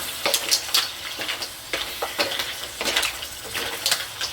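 Mussels frying in a pot with onion and garlic, sizzling steadily, while a utensil stirs them with irregular clinks and scrapes against the pot.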